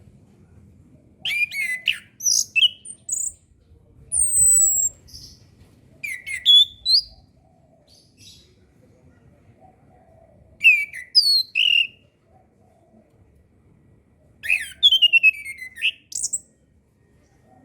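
Chestnut-capped thrush (anis kembang) singing: bursts of varied, high whistled phrases with quick rising and falling glides, coming every few seconds with short pauses between. The last burst ends in a fast run of notes stepping down in pitch.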